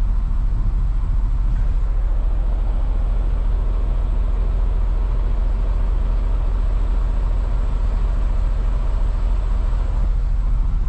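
Steady low rumble of an idling semi-truck diesel engine, heard from inside the cab.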